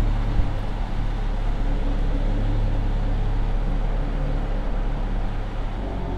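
Mercedes-AMG EQS 53 electric car driving, a steady low hum over road and wind noise.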